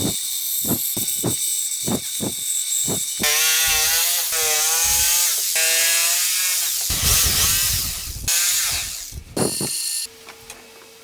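Woodworking tool sounds: a run of sharp knocks, then a power tool whining with its pitch rising and falling, then a rough rasping stretch like sawing or sanding.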